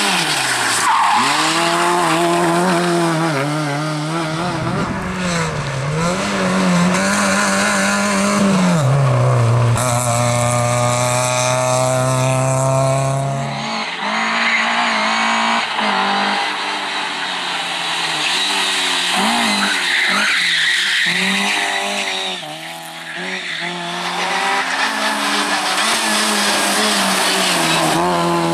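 Competition cars' engines revving hard and shifting up and down through the gears, with tyres squealing as the cars slide through turns.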